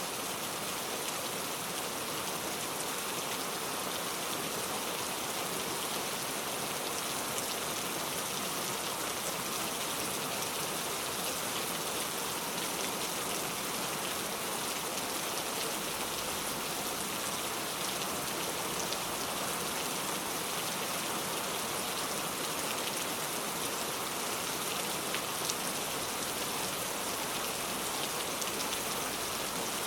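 Heavy rain falling steadily, an even hiss of countless drops on surfaces with no let-up.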